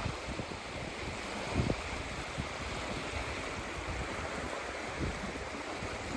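Sea surf washing steadily on a beach, with wind buffeting the microphone in low gusts, the strongest about a second and a half in.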